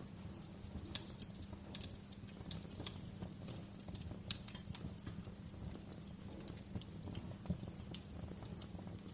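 Wood fire in a fireplace crackling, with irregular sharp pops over a steady low rumble. The loudest pop comes about four seconds in, and another strong one comes near the end.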